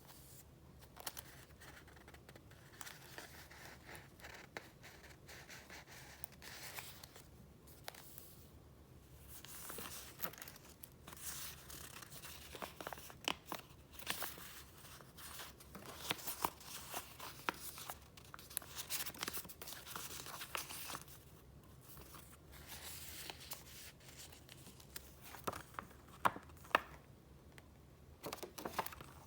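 Paper goods and the pages of a file being handled and flipped: rustling, crinkling and light taps coming in scattered bursts, busiest in the middle and again near the end.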